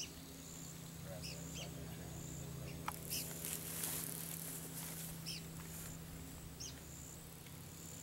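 Faint outdoor ambience: a bird gives short, high chirps every second or two over a steady low hum, with a brief hiss about three to four seconds in.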